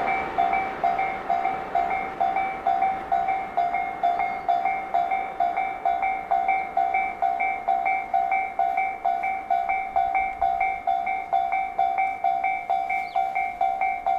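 Railway level-crossing warning bell ringing steadily, an even electronic ding repeated about three times a second.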